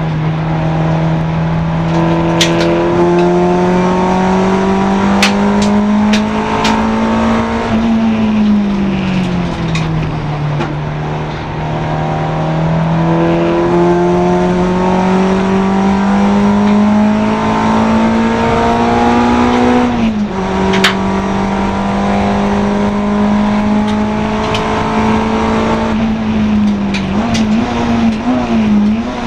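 Honda Integra DC2 race car's engine under hard acceleration, its pitch climbing slowly, falling away about a third of the way in, climbing again, then dropping sharply for a gear change. Near the end the note wavers up and down as the revs change, with a few sharp clicks along the way.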